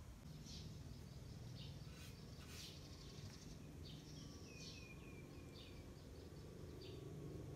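Faint bird chirps: short high calls scattered throughout, with a quick run of repeated notes about halfway through, over a low steady hum.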